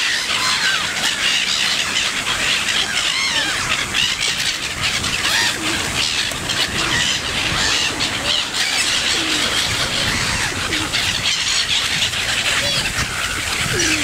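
A flock of birds calling over one another, with many short, high, gliding calls overlapping throughout and a steady low rumble beneath.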